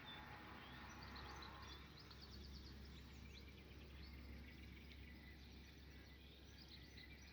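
Near silence outdoors with faint bird chirps: short, repeated calls that thin out over the last few seconds, over a low steady hum.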